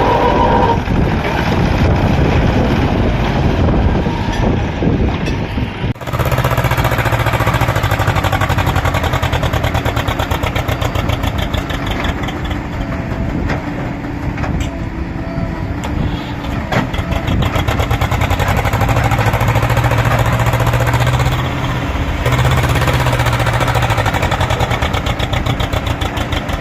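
Diesel tractor engines of a Swaraj 744 and a Mahindra 255 running loud and steady, pulling against each other in a tug-of-war. The sound breaks off for an instant about six seconds in and carries on.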